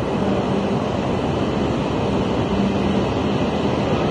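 E5 series Shinkansen bullet train arriving, rolling slowly along the platform: a steady rumble and rush of wheels and air, with a low hum coming and going.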